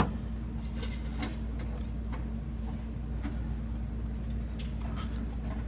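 Steady low hum with a few faint, short clicks and taps scattered through it.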